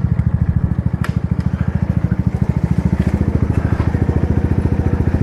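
Motorbike engine running steadily with a fast, even low putter, and a sharp click about a second in.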